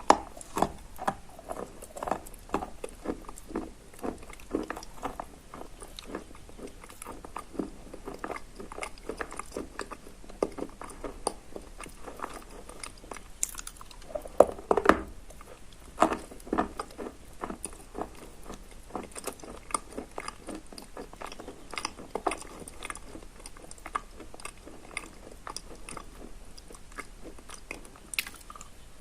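Close-miked biting and chewing of soaked Barsuk chalk sprinkled with crumbs of Lazurit chalk: a steady run of wet crunches, with a few louder bites about halfway through and near the end.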